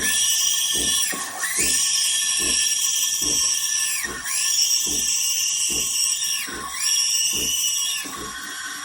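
Espresso machine steam wand hissing and squealing in loud bursts of one to two seconds, like milk being steamed and frothed.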